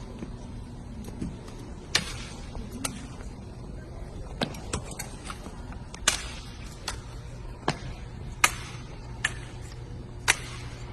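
Sharp slaps and clacks of a drill rifle being caught and struck by hand during a rifle drill routine, about ten separate hits at irregular spacing, roughly one a second, over a steady low hum.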